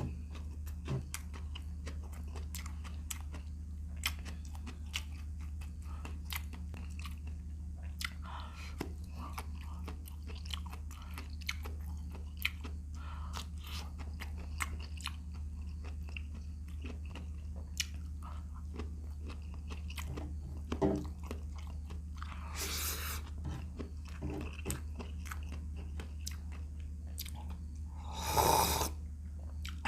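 Close-up chewing and biting of stewed shrimp, with many small wet clicks and crunches, over a steady low hum. Two louder, noisier sounds stand out, about two-thirds of the way in and near the end.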